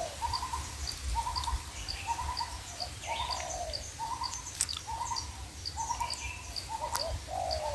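Spotted doves cooing, a run of short rolling coo phrases repeated every half second or so. A small bird keeps chirping high above them, and there are two brief clicks about halfway through and near the end.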